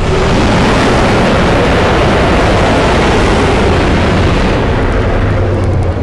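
Custom-designed monster roar sound effect: a loud, dense, rumbling roar held steady for several seconds, easing off near the end.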